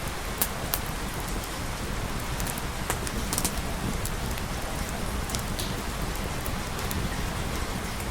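Steady rain falling, with scattered sharp clicks through the hiss.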